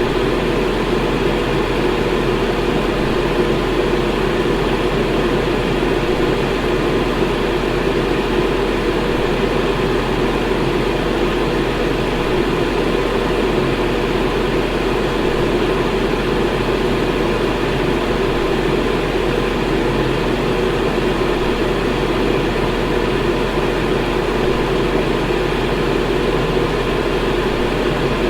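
Electric fan running steadily: an even rushing noise over a steady low hum, with no change in level.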